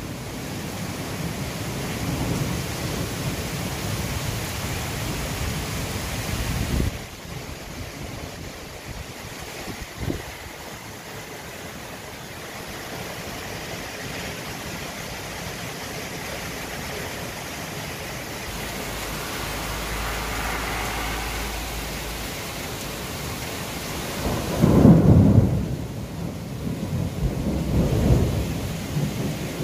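Torrential thunderstorm rain pouring steadily in strong wind gusts. A low rumble comes about two-thirds of the way through, and two loud surges of noise come near the end.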